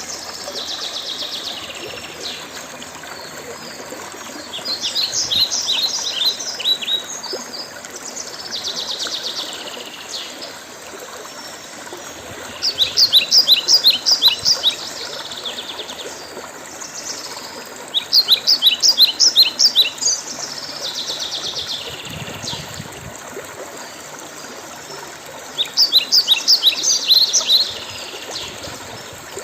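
A songbird singing, repeating phrases every few seconds: some are runs of quick, high, falling notes, others are shorter buzzy trills. A steady hiss runs underneath.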